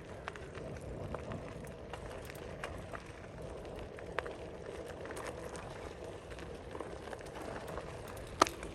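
Outdoor ambience: a steady low background noise with scattered light clicks and one sharper click near the end.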